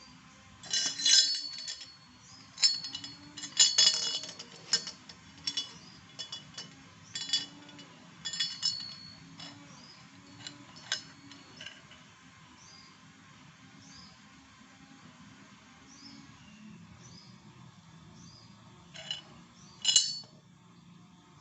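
Irregular sharp clinks and knocks with a ringing edge, more than a dozen in the first half and two more near the end, over faint background chirping.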